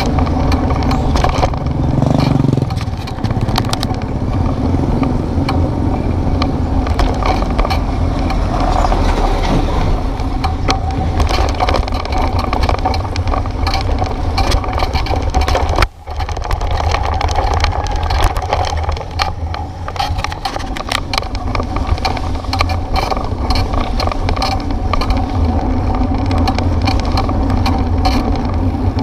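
Steady rumble of wind and riding noise from a bike on a rough road, with many small rattles and knocks throughout. The sound briefly cuts out about sixteen seconds in.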